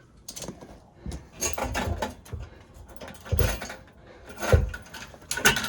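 Tools and hardware being handled: a run of knocks and clatter, with two heavier thumps about three and a half and four and a half seconds in.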